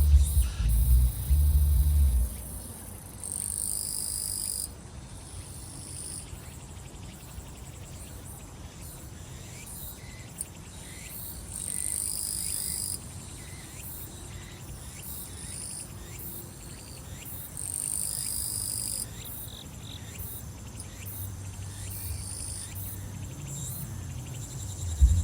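Summer grass insects trilling, a high-pitched buzz that comes and goes in stretches of a few seconds, with short repeated chirps through the second half. A low thumping music beat is heard in the first two seconds and again at the very end.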